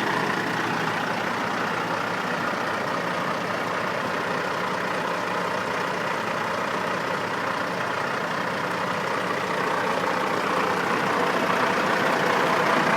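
Big rig truck's engine running steadily, growing a little louder near the end.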